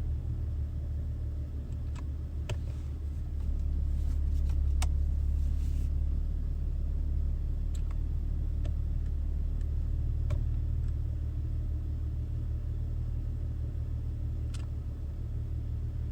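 BMW 330xi's inline-six engine idling with a steady low rumble, a few faint clicks scattered over it, while the new automatic transmission fluid is circulated through the gears before the level check. The idle swells a little from about four to six seconds in.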